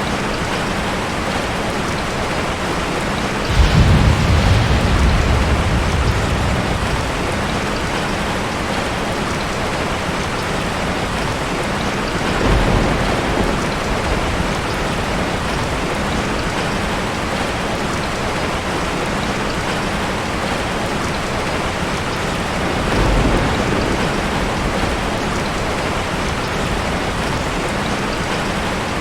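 Steady rain falling, with thunder rumbling three times: a sudden loud peal about three and a half seconds in that fades over a few seconds, and softer rolls near the middle and toward the end.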